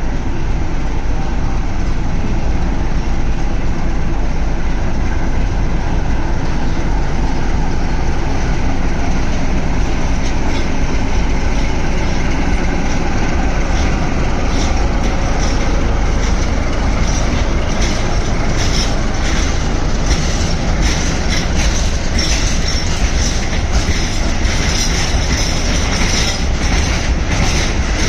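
Freight train of tank wagons behind an Electroputere 060-DA diesel locomotive rolling past, a steady low rumble. From about halfway on, wheels clack over rail joints in quick, uneven runs that grow louder as the wagons pass.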